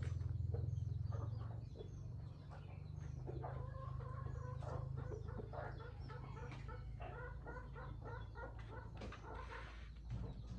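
Chickens clucking in a run of short repeated calls from about three seconds in, with small high chirps and a steady low rumble underneath.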